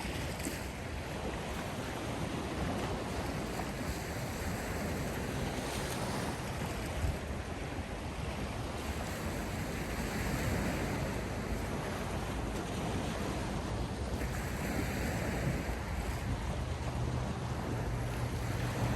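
Sea surf washing ashore in a steady wash of noise, with wind blowing over the microphone.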